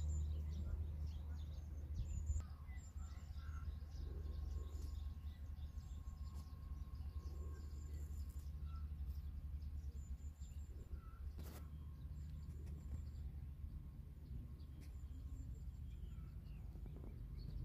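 Small birds chirping faintly in short, high calls, over a steady low rumble of outdoor background noise.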